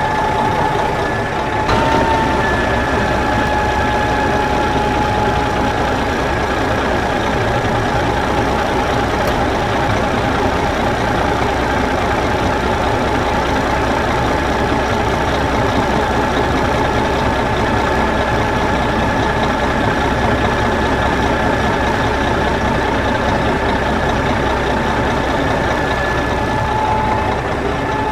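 Mini tractor's engine running steadily at idle, with a constant high-pitched whine over the engine noise. A short knock about two seconds in.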